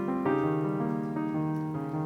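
Background piano music, notes and chords changing about every half second.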